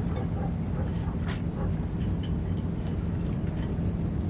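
Steady low rumble of a running vehicle, with an even drone and a few faint clicks.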